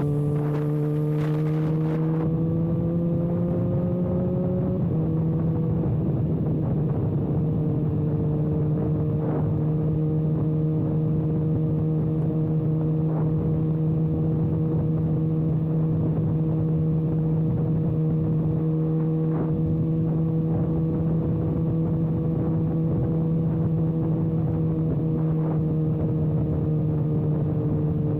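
Kawasaki ZX-6R inline-four running with its exhaust canister removed, a loud open exhaust note at steady cruising revs. The pitch climbs slowly for the first few seconds, dips slightly about five seconds in, then holds steady.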